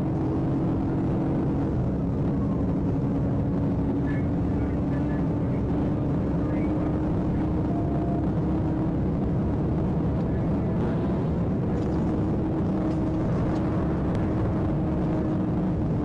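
Police patrol car at highway speed: a steady engine drone over road and wind noise.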